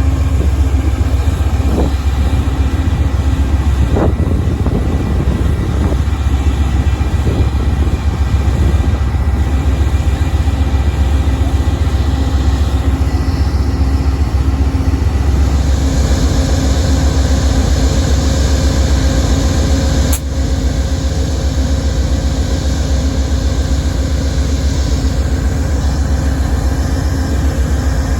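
Amtrak P42DC diesel locomotive running steadily with a deep, constant rumble and hum, the engine idling at a stop. A single sharp click about two-thirds of the way through.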